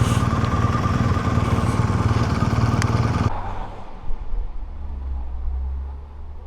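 Motorcycle engine running steadily while riding, with a rushing haze over it. It cuts off abruptly about halfway through, leaving only a quieter low hum.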